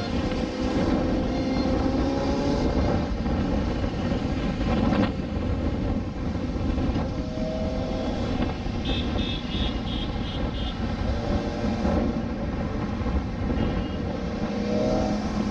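A motorcycle ridden at speed, with heavy wind rush on the microphone and an engine note that rises and falls in pitch. A quick run of about six short high beeps comes around nine seconds in.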